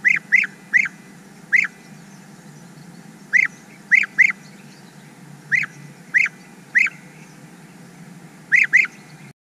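Bird calls: about a dozen short, sharp calls, some single and some in quick pairs, spaced irregularly over a steady background hiss. They stop just before the end.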